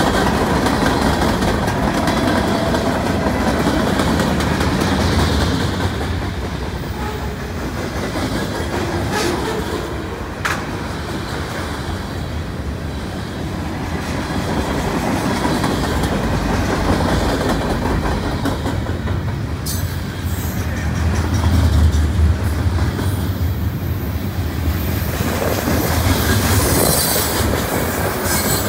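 Freight train cars, covered hoppers and tank cars, rolling past at close range: a steady rumble and clatter of steel wheels on the rails, with a heavier low rumble about three quarters of the way through.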